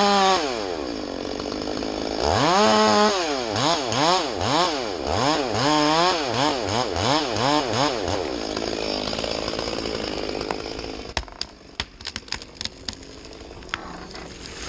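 Two-stroke chainsaw cutting into a tree, its revs rising and falling over and over as it works the cut, then dropping away. About eleven seconds in comes a run of sharp cracks and snaps.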